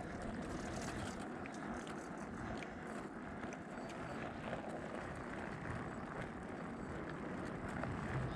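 Steady rolling noise of a touring bicycle riding along the road, with scattered faint clicks.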